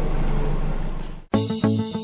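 Toyota 1AZ-FSE 2.0-litre inline-four engine running steadily. It cuts off abruptly a little over a second in, and music with plucked guitar begins.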